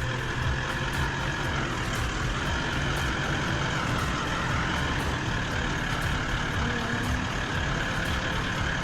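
Vehicle engine and road noise, running steadily.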